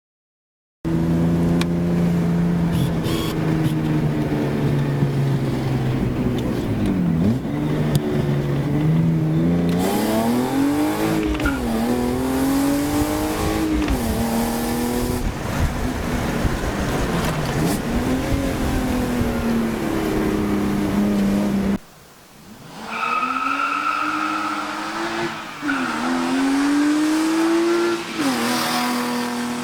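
BMW E36 328i's straight-six engine pulling through the gears: its note climbs in pitch, then falls back at each shift, several times over. About two-thirds of the way through it cuts off sharply for a moment, then pulls again with a high whine over it for a couple of seconds.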